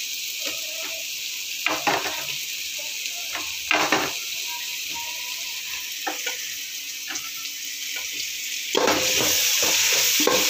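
Chopped tomatoes sizzling as they fry in hot oil and ghee in a metal pot, with a metal slotted spoon knocking and scraping against the pot as they are stirred. The sizzle grows louder near the end.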